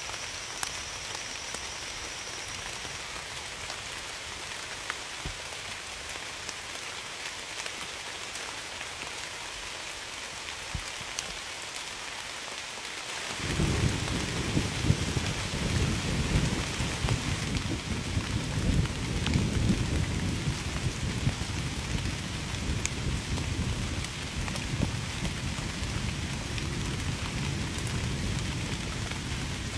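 Steady heavy rain falling, with a long low rumble of thunder that comes in suddenly about halfway through and keeps rolling.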